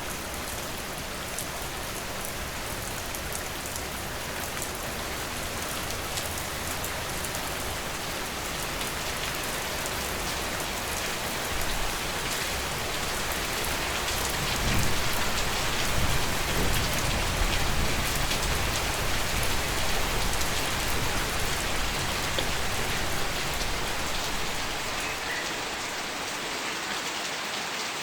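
Steady rain falling and pattering on surfaces, growing heavier about halfway through and easing again near the end.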